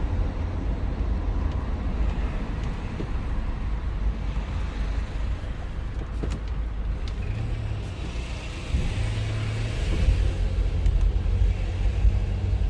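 Car running on the road heard from inside the cabin: a steady low engine and road rumble, growing a little louder about nine seconds in.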